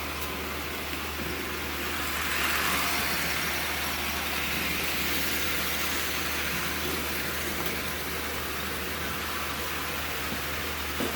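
Electric model train engine running laps on its track: a steady motor whir with wheel and rail noise, louder for a few seconds about two seconds in as it passes close.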